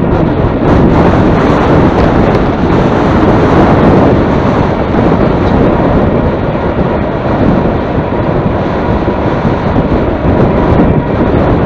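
Heavy wind buffeting the microphone, a loud rumbling roar that swells and dips without letting up, from riding into a headwind.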